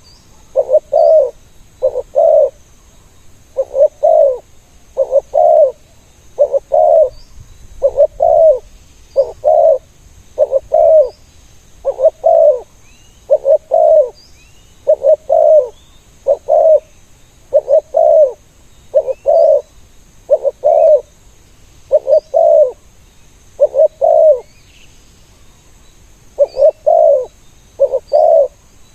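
Spotted dove cooing over and over in short paired notes, about one pair every one and a half seconds, with a brief pause near the end. Faint high chirps of small birds sound above it.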